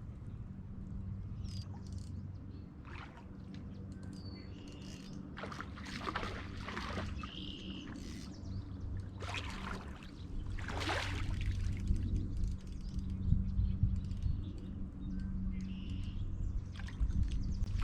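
Small birds chirping over a steady low hum, with several bursts of splashing water as a hooked carp is played in.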